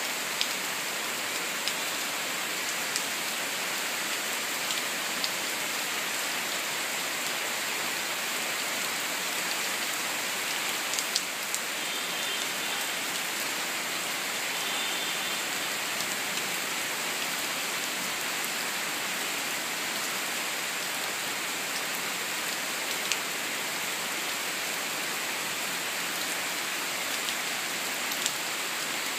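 Steady rain falling on lawn, leaves and trees: an even hiss. A few sharp, close taps of drops stand out now and then.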